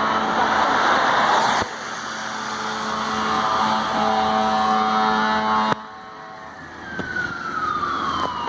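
Fire truck sirens wailing, sweeping down and up in pitch, over the trucks' engines running. The sound breaks off suddenly twice.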